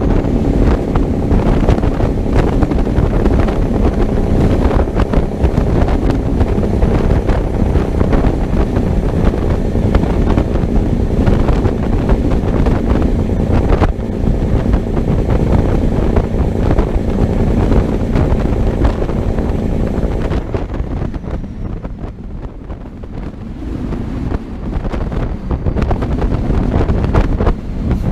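American big-rig truck running on the road: engine and road rumble with wind buffeting the microphone. It eases off and quietens for a few seconds near the end, then picks up again.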